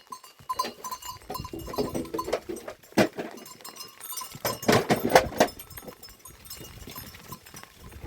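Goats bleating, with the loudest calls about five seconds in, among scattered knocks and clicks.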